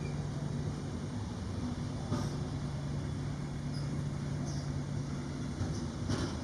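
Train running by with a steady low rumble and a held hum; two short clicks, one about two seconds in and one near the end.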